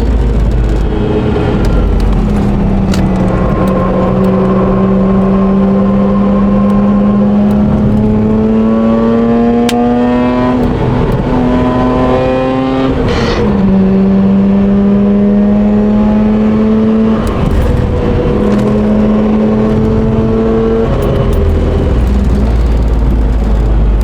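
Mazda RX-8's rotary engine running hard on a race track. Its pitch holds steady for long stretches, climbs, and drops back suddenly about halfway through at a gear change.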